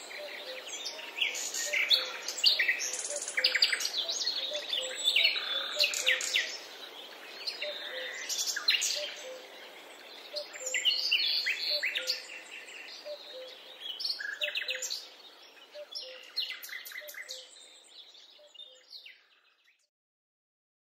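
Several small songbirds chirping and singing over one another in a busy chorus, with a faint low note repeating underneath; the chorus fades out near the end.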